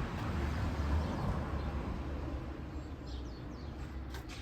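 Steady low rumble and hiss of outdoor background noise that slowly fades, with a few faint bird chirps about three seconds in.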